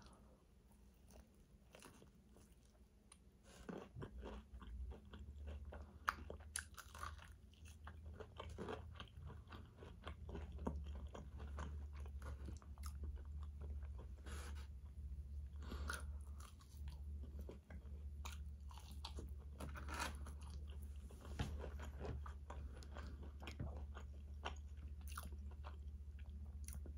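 A person chewing and biting fried fast food close to the microphone, with wet chewing and occasional crunches; it starts about three and a half seconds in after near silence.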